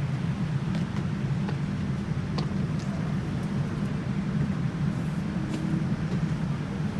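Steady low rumble of an airliner cabin, with a few faint clicks.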